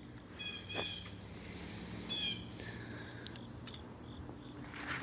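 Crickets trilling steadily in the garden, with two short runs of quick high chirps from a small animal, about half a second in and about two seconds in.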